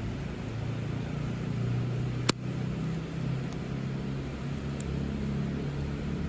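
Campfire burning with a steady low rumble, and one sharp pop of burning wood about two seconds in.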